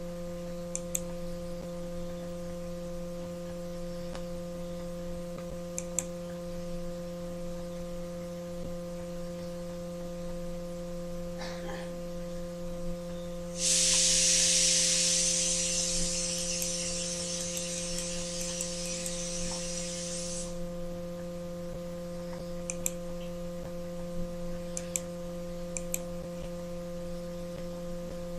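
Steady electrical mains hum with a few faint clicks. About halfway through, a loud high hiss comes in suddenly, lasts about seven seconds, then cuts off.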